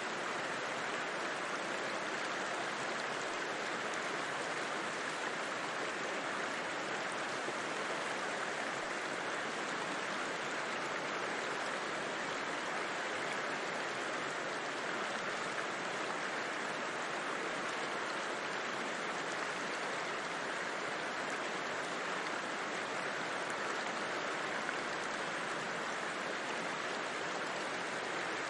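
River water rushing steadily over rocks, an even wash of sound with no breaks.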